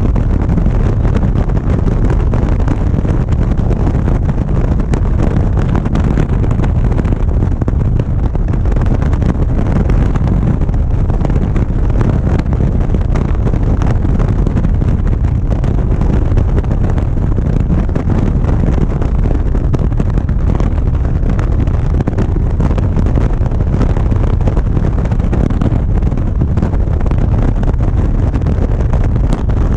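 Steady wind buffeting on a GoPro microphone at riding speed, with a motorcycle's engine running underneath.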